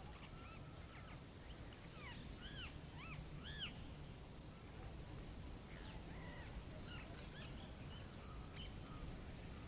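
Small birds chirping, a run of short arched calls that is busiest about two to four seconds in, over a low steady rumble.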